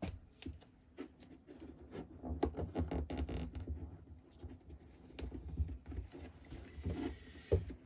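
Hand work: a run of small clicks, taps and light knocks, as of tools and small parts being handled, with a busier patch of low knocks a couple of seconds in.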